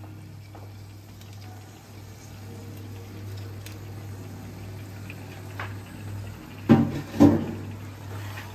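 Yogurt-marinated chicken being scraped with a silicone spatula off a plate into a pan of hot fried masala, with a soft wet sizzle over a steady low hum. Near the end come two loud knocks about half a second apart.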